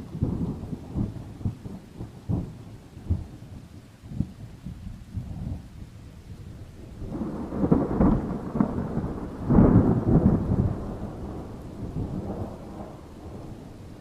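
Thunder rumbling and crackling over steady rain, breaking in sharp cracks at first, swelling to its loudest twice around eight and ten seconds in, then slowly fading.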